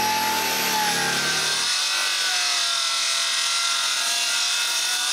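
Track saw running and ripping along the edge of a wooden plank to straighten it, a steady whine over the cutting noise.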